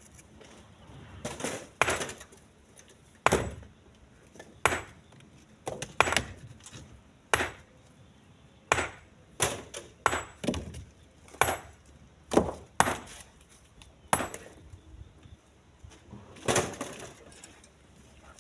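Split stones being thrown one at a time into a truck bed, each landing with a sharp knock, about once a second at an uneven pace, some with a short rattle after.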